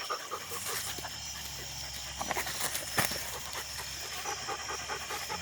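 A dog panting in quick, even breaths, with a single sharp click about three seconds in.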